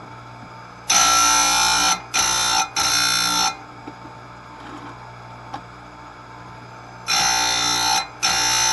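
Electric chainsaw-chain grinder with a CBN wheel running with a steady hum, its wheel grinding chain teeth in short passes. There are two groups of three grinds, each group a longer grind followed by two shorter ones: the first group comes about a second in and the second near the end.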